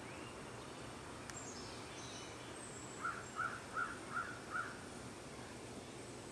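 A bird calls five times in an even series, about three seconds in. Fainter high chirps from other birds come just before, over steady background noise.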